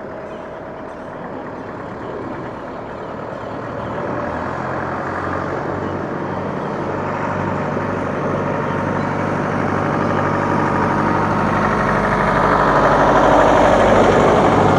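A heavy vehicle's engine running at a steady pitch, growing steadily louder as it draws near and loudest near the end.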